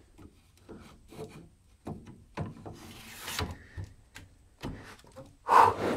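Hands handling the opened limiter's metal chassis and parts: irregular knocks and clatter, a scraping rub around the middle, and one louder scrape near the end.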